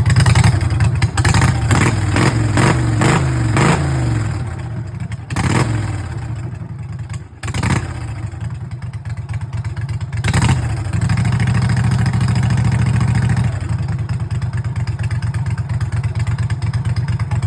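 Mud Buddy 25 hp Kohler EFI mud motor running through a new BPS X Wing Lite muffler. It is revved in several quick blips over the first few seconds, drops low in the middle, is blipped once more about ten seconds in, is held a little faster for a few seconds, then settles to a steady idle.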